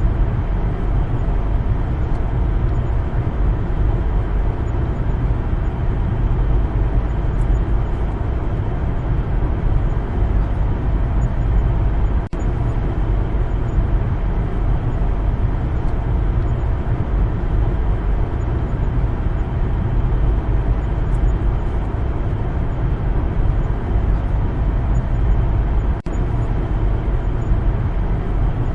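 Steady rumble of a car driving on a road, with tyre and engine noise and most of the sound deep and low. It drops out for an instant about twelve seconds in and again near the end.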